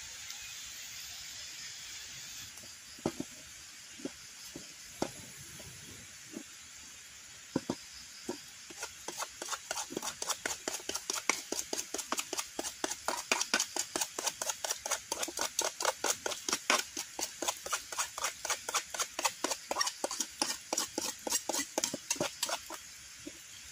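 Knife chopping on a cutting board: a few separate cuts, then a fast, even run of sharp chops at about three to four a second that stops near the end, over a steady hiss.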